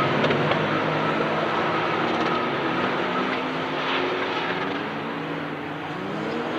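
Porsche 911 GT3 Cup race cars' flat-six engines running at racing speed, with engine notes gliding up and down as they rev and change gear, getting gradually quieter.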